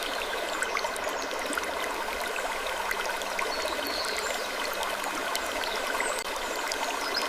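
Steady running water, like a trickling stream, with faint scattered ticks throughout and a brief high squeak about four seconds in.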